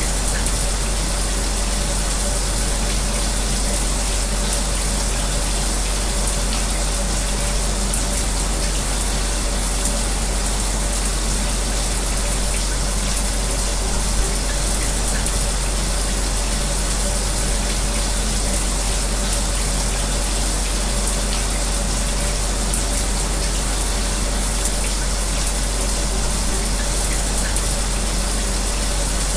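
A shower running steadily, with the even rush of falling water, mixed with the steady hum of an electric fan.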